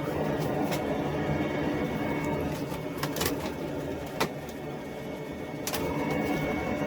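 Shop vac motor running steadily in blower mode, pushing air through a dryer vent duct to blow out lint, with a steady whine and hum; a few short knocks come through the middle.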